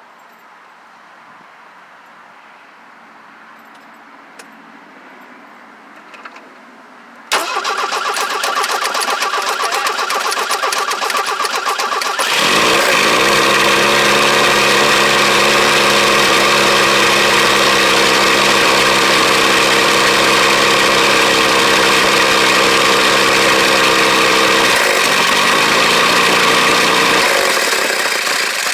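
1983 Ford Ranger cold start, with an oversized carburetor fitted: after a few faint clicks the starter cranks the engine for about five seconds, then it catches and runs steadily. Its note steps down twice near the end.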